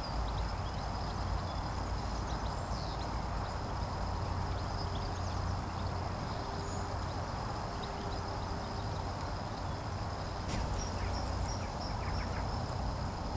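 Wild songbirds calling outdoors: scattered short high chirps, then about ten seconds in a quick run of about six evenly spaced high notes, over a steady low rumble and a thin steady high tone.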